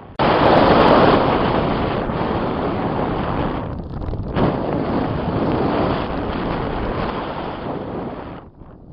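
Strong wind buffeting the microphone as a loud, even rush. It starts suddenly, drops briefly about four seconds in, and falls away near the end.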